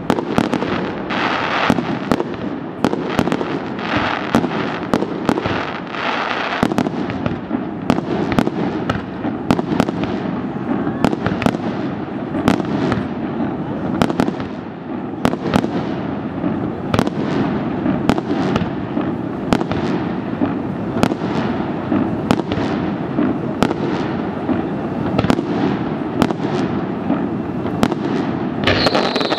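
Fireworks display: sharp bangs from bursting aerial shells, one or two a second, over a steady rumble. A ground fountain hisses through the first several seconds, and a falling whistle sounds near the end.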